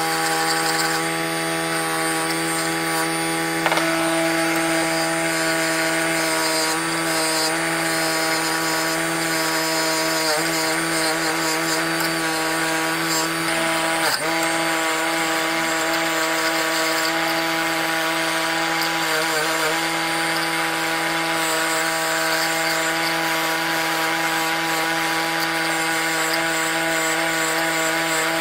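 Electric power tool motor running at a steady speed with an abrasive rubbing noise over it, as of grinding or brushing metal. A brief scrape or click about fourteen seconds in.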